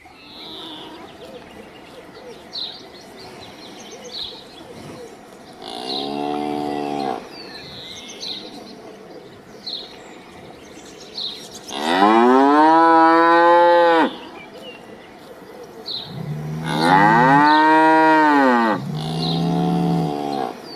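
Cows mooing: a shorter, quieter moo about six seconds in, then two long, loud moos that rise and fall in pitch, and a further moo near the end.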